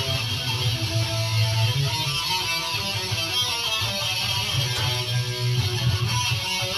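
Electric guitar playing a riff in a small Arabic-sounding scale shape that gives the notes a sitar-like flavour.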